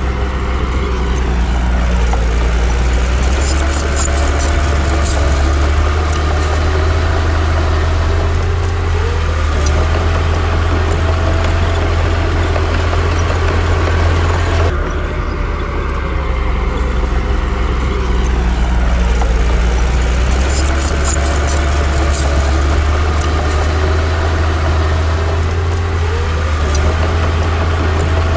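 Heavy diesel engine of a Komatsu D60 bulldozer working, its pitch rising and falling as it revs and eases off over a constant low drone, with scattered metallic clicks and clanks. The same passage repeats about halfway through.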